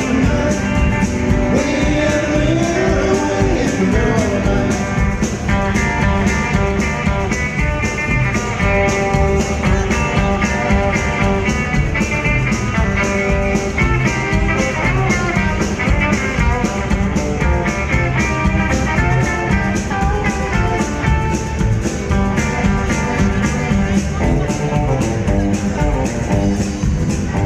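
Rockabilly band playing an instrumental break: guitar lines over a steady, driving beat.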